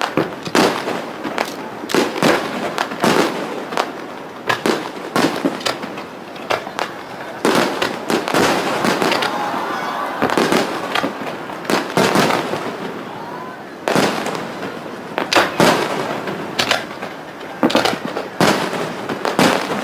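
Aerial fireworks bursting in rapid, irregular succession, many sharp bangs overlapping one another. They thin out for a few seconds around the middle, then come thick and fast again.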